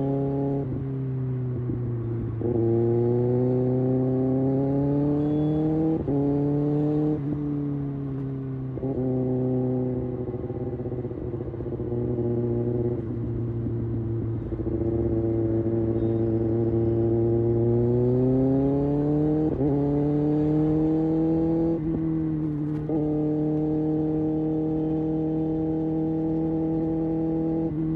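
Kawasaki Ninja ZX6R's inline-four engine and exhaust pulling up through the revs and upshifting several times, each shift a sudden drop in pitch, then holding a steady note near the end.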